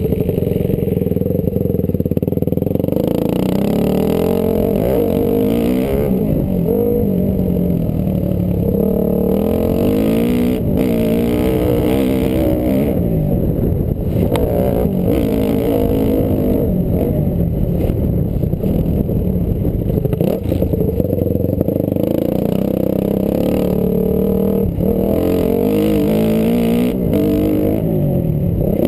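Honda CRF250R single-cylinder four-stroke motocross engine under hard riding, its pitch rising and falling again and again as the throttle opens, closes and the gears change.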